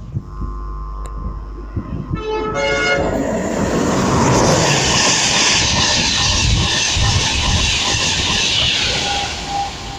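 Passenger train passing through a station at speed, its driver sounding a two-tone horn on approach: a higher note for about two seconds, then a short lower one. Loud rushing wheel and air noise follows as the train goes by, easing near the end.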